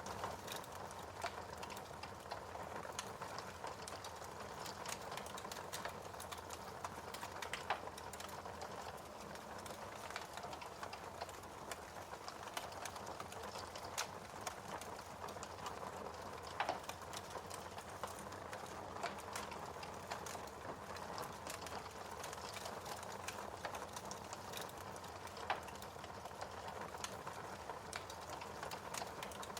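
Fireplace fire crackling: a steady soft hiss with irregular small snaps and four louder pops spread through.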